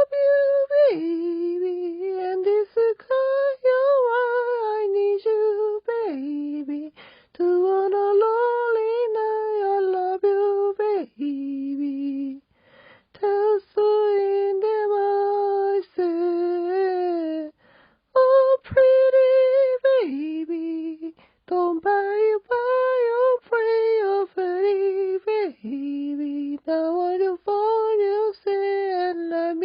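A woman humming a melody unaccompanied, in phrases of a few seconds separated by short breaths.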